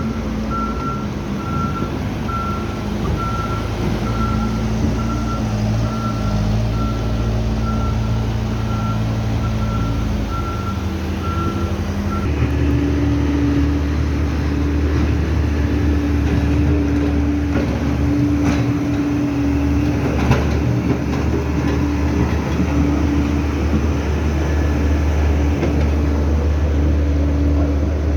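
Heavy vehicle engine running, with a reversing alarm beeping at an even pace. About twelve seconds in, the sound changes abruptly to a different engine running with a deeper rumble and an on-and-off low hum.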